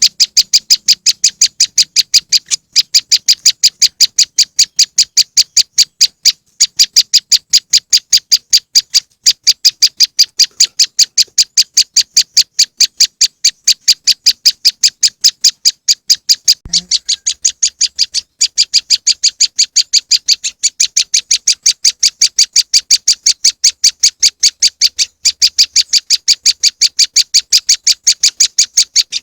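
Prenjak lumut (Indonesian 'moss wren') lure call: a fast, unbroken run of high, sharp chirps, about four or five a second. The run pauses only briefly a few times.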